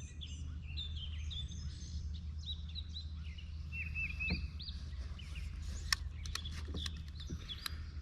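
Songbirds chirping and singing in repeated short phrases over a steady low rumble, with a few sharp clicks in the second half.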